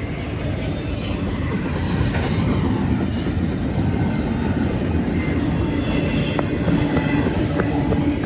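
Train cars rolling past on the rails: a steady rumble with occasional wheel clacks near the end, as the tail of the train goes by.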